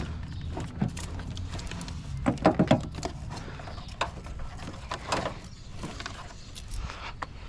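Scattered clicks and knocks of hand work on a truck, with a quick run of louder rattling knocks about two and a half seconds in.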